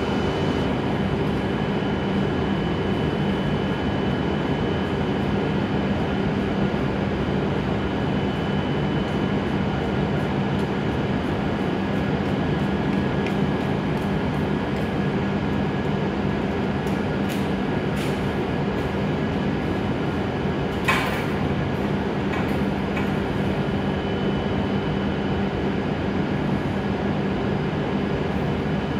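W7 series Shinkansen standing at the platform, its onboard equipment giving a steady hum with a few thin whining tones on top. There are a few faint clicks, and a short sharp noise about two-thirds of the way through.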